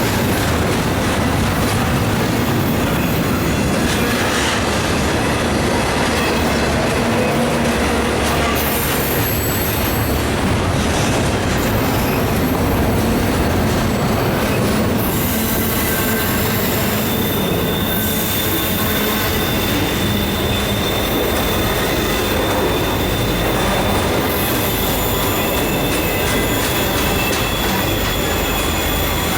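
Cars of an intermodal freight train rolling past, loud and steady, with the rumble of wheels on rail and thin, high wheel squeal.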